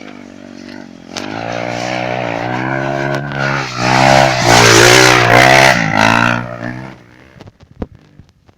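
Off-road trail motorcycle engine coming close and revving up and down, loudest about four to six seconds in, then fading away. A few sharp clicks follow near the end.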